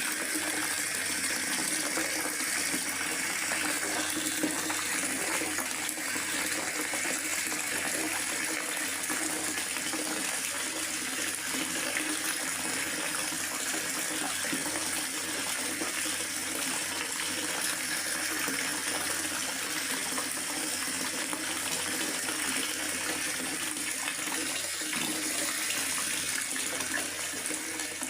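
Steady rain falling, an even unbroken rush of water with no single drops or breaks standing out.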